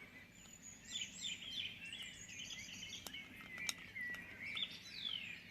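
Dawn chorus of songbirds: several birds chirping and singing together in many short rising and falling notes.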